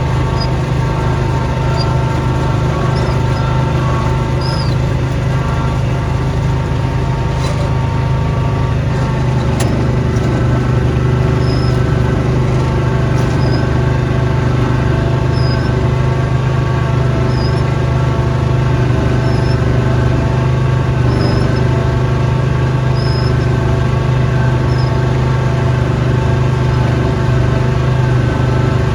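Snowblower engine running steadily at constant speed. A faint high chirp recurs about every two seconds through most of the stretch.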